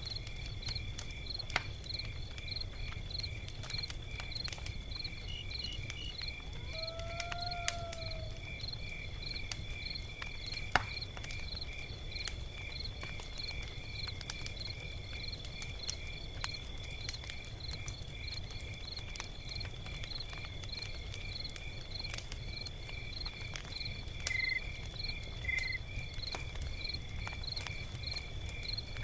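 Log fire crackling: scattered sharp pops and ticks over a low steady rumble. Alongside it, a high, evenly pulsed insect chirping runs on. A single short call that rises and falls comes about seven seconds in.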